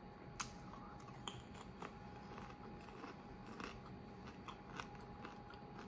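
Faint, crisp crunching as a person bites and chews a dry everything-bagel popped rice cake, with sharp crunches at irregular intervals.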